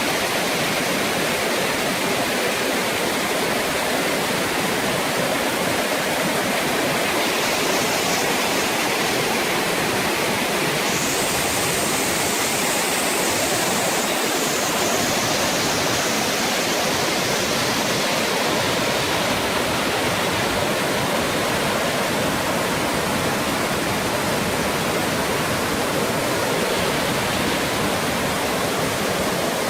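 Waterfall's water pouring down in a steady, loud rush, its hiss growing brighter for a stretch in the middle.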